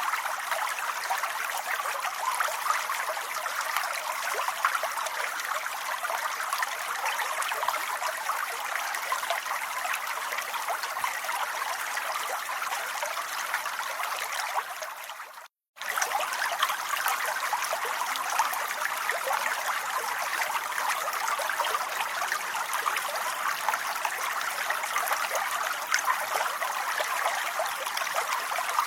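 Steady rain, a dense even hiss of falling water with fine pattering drops. About halfway through it fades out, goes silent for a moment and starts again at once, as at the join of a looped recording.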